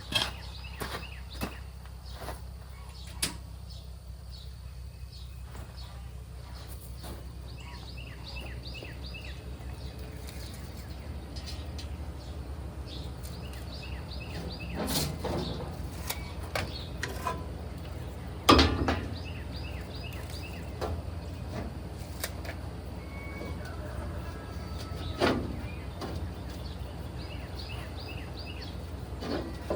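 A steady low hum runs throughout, overlaid with scattered clicks and knocks and a few louder short bursts, the loudest about two-thirds of the way in. Birds chirp faintly at times.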